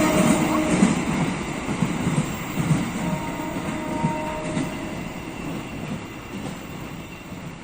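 Train rolling past on the rails, rumbling and clattering, fading steadily as it moves away.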